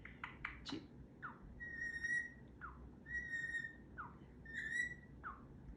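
Pet parrot whistling: a few quick chirps, then three times over a short falling chirp followed by a steady held whistle.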